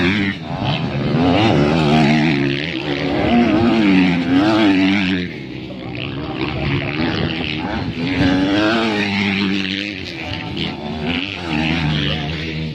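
Several 250cc motocross bike engines revving hard, their pitch rising and falling as the bikes accelerate and shift along the dirt track. The sound swells and fades as they pass.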